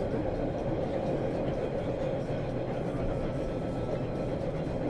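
Subway train running between stations, heard from inside the car: a steady rumble with a constant hum in the lower middle range.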